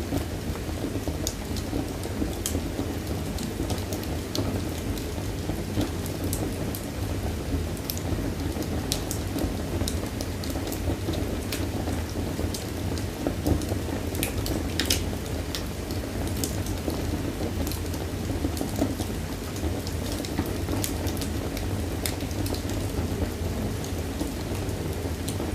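Fire burning in a fireplace: a steady low rumble of flame with scattered sharp crackles and pops.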